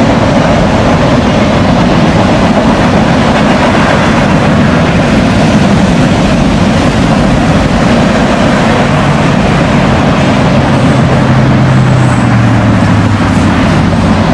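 Freight train cars rolling past close by: a steady, loud rumble of steel wheels on rail.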